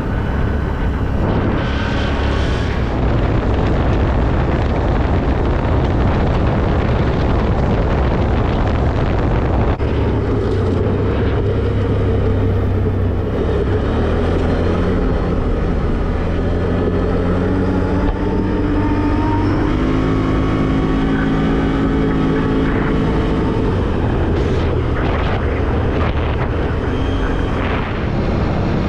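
Off-road vehicle driving a dirt trail: steady engine hum under tyre and body noise, with the engine pitch climbing and shifting a little past halfway, and a few knocks from bumps near the end.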